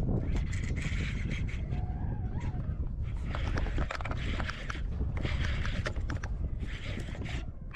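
Spinning reel's drag giving line in short crackling spells, four or five times, as a hooked fish pulls, over a steady rumble of wind and handling on the microphone.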